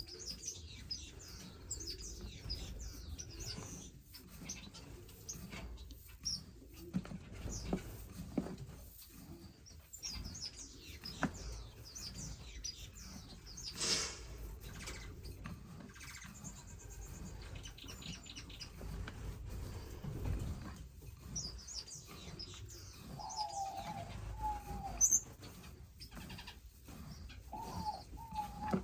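Caged finches chirping, many short high calls scattered throughout, with a lower wavering call a few times in the last few seconds.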